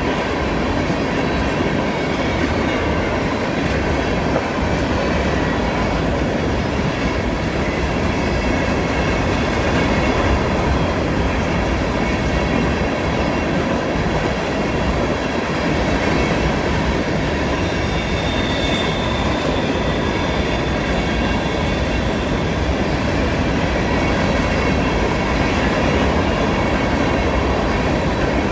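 CN freight train's cars rolling past on a curve: a steady rumble of wheels on rail, with a faint, steady high squeal of wheels in the curve.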